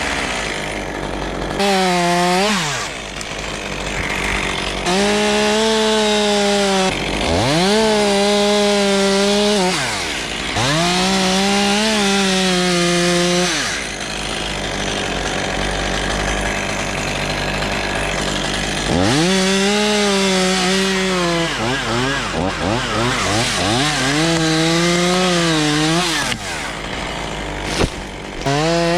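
Chainsaw revved to full throttle for cuts of a few seconds each, about six times, its pitch climbing as it speeds up and dropping back between cuts.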